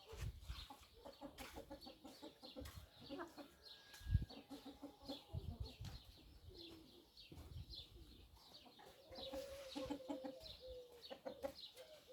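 Chickens clucking in short repeated calls, with a longer drawn-out call near the end and a low thump about four seconds in.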